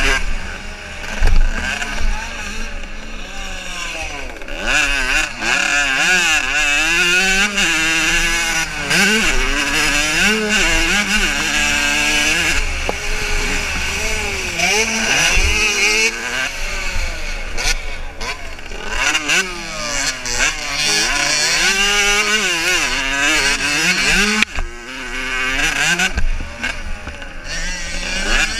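Several motocross bikes racing past, their engines revving up and dropping back again and again as riders work the throttle and change gear.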